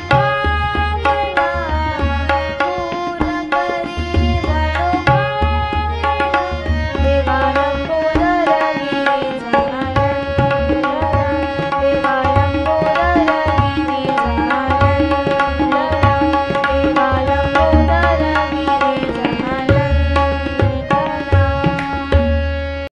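Marathi devotional bhajan music: tabla plays a steady rhythm with deep bass strokes, under a bending melody and a held drone note.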